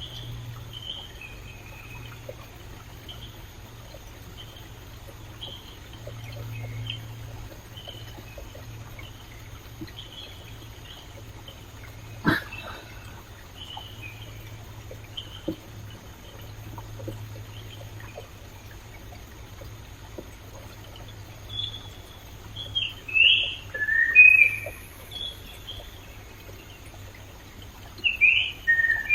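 Birds chirping in short calls over the steady rush of a flowing stream. The calls grow louder in the second half, with a run of falling chirps and another pair near the end. One sharp click comes near the middle.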